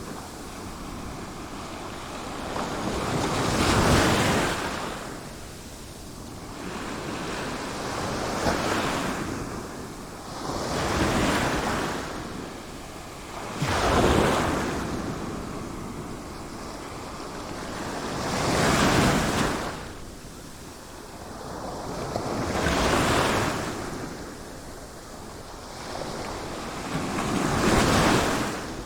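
Sea waves breaking in slow, repeated surges, about six swells that each build and fade over a couple of seconds, with a steady hiss of surf between them.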